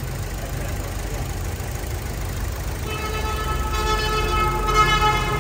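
Chevrolet Cruze's rebuilt petrol engine idling steadily and smoothly. About three seconds in, a steady horn-like tone starts and holds for about two and a half seconds over the engine.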